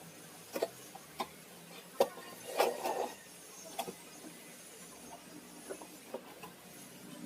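Handling noises while unboxing a ceiling fan: scattered clicks and knocks, with the sharpest about two seconds in and a short rustle of packaging just before three seconds.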